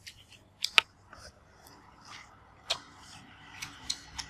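Crisp crunching of raw fresh vegetables being bitten and chewed close to the microphone: a few sharp, separate crunches, the loudest about a second in, then several more in the second half.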